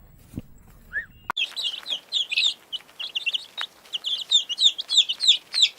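Birds chirping: first a few single chirps, then, after a sudden cut about a second in, a dense, rapid chorus of high chirps.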